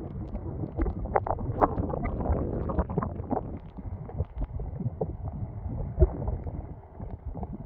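Strong storm wind buffeting the microphone as a low, gusting rumble, with many irregular knocks and taps through it and one sharper knock about six seconds in.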